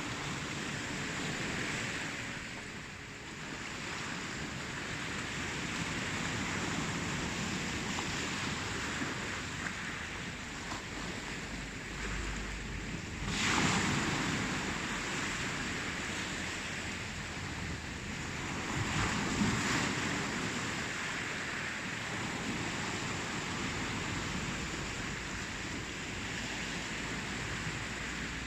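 Ocean surf: waves washing in with a steady rushing hiss that swells and ebbs. The loudest waves break about halfway through and again a few seconds later.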